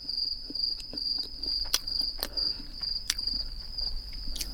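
A cricket chirping in the background, one high pulsing note that runs on unbroken, with a few sharp crunches and soft chewing sounds from pizza crust being eaten close to the microphone.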